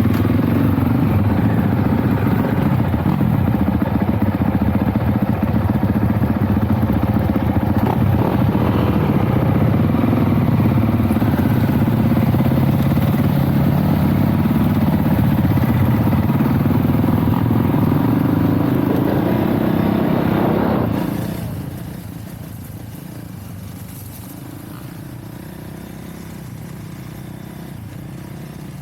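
Dirt bike engine running steadily. About 21 seconds in the sound drops sharply to a quieter, steady level.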